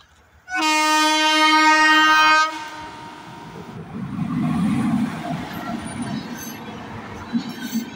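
Indian Railways locomotive sounds one long, steady horn blast of about two seconds. It then rushes past hauling LHB passenger coaches, with a rising rumble of the locomotive and wheels, and a rhythmic rattle of wheels on the rails near the end.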